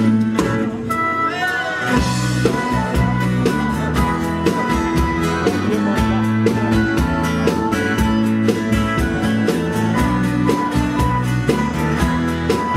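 Band playing an instrumental break between sung lines of a pop song: guitar over bass and a steady drum beat.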